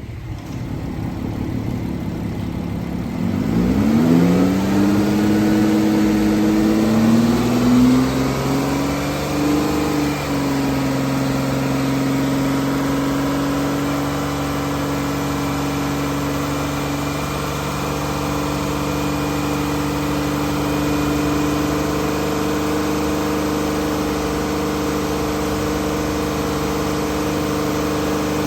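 2011 Dodge Caravan's 3.6L Pentastar V6 being cranked by the starter for about three seconds, then catching and revving up. The idle climbs and wavers for several seconds before settling to a steady idle.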